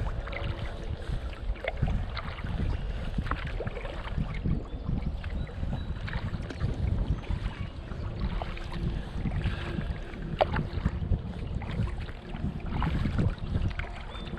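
Kayak being paddled: water sloshing and dripping off the paddle, with scattered light clicks and knocks. Wind rumbles on the microphone underneath.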